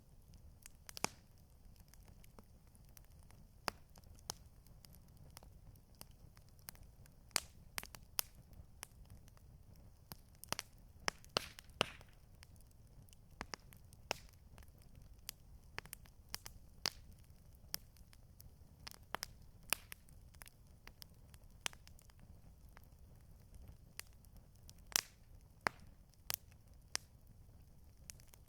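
Campfire crackling: irregular sharp pops and snaps of burning wood, several a second at times, over a faint low rumble.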